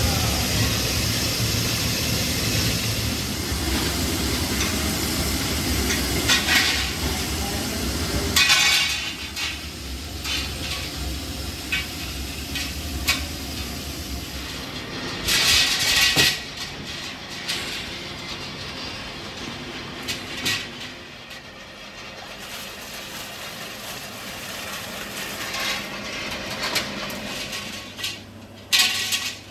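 Workshop machinery running with a steady drone for about eight seconds, then quieter, broken by irregular metal knocks, clanks and short hissing bursts.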